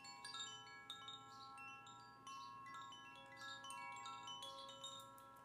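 Wind chimes ringing softly, many overlapping metal tones struck at random moments and ringing on.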